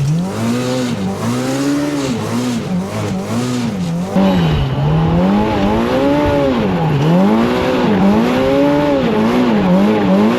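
Turbocharged Polaris RZR Pro R engine revving up and down repeatedly under throttle, its pitch rising and falling about once a second. The sound jumps louder about four seconds in.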